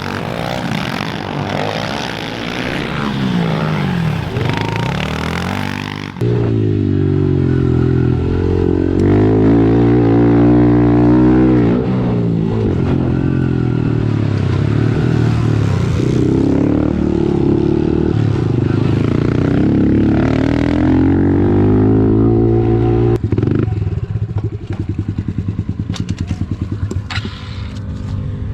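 Pit bike engines (110cc four-strokes) racing: first several bikes running together on the track, then from about six seconds one bike loud and close, revving up and falling back again and again as the rider works the throttle. Near the end it drops to a lower, uneven putter.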